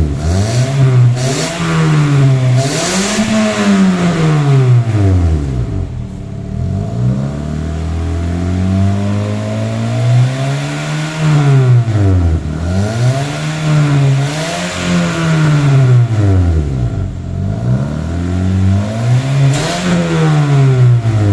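Toyota Yaris TRD engine revved up and down repeatedly through an NDK DK 01 v2 aftermarket muffler on the original header and resonator. The exhaust note climbs and drops again every second or two, and is held at a steadier mid pitch for a few seconds near the middle.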